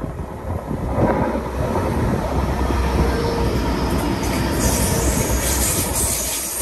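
A train passing close by. It builds about a second in to a steady loud rumble of running wheels and rushing noise, which grows hissier in the highs in the second half.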